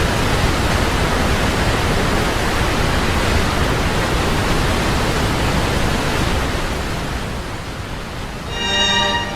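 Steady rushing noise that eases off over the last few seconds, as music with held, string-like notes comes in near the end.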